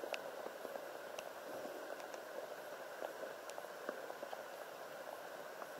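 Light rain falling on the water, a faint even hiss with a few scattered drop ticks.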